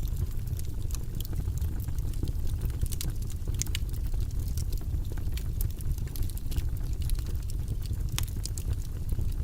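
Fireplace fire crackling: scattered sharp pops and snaps over a steady low rumble of burning.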